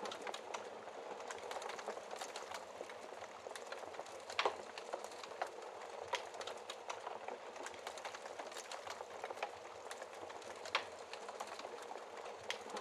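Fire in a fireplace crackling over a soft, steady hiss, with many small snaps and a couple of louder pops, one a little past four seconds in and one near eleven seconds.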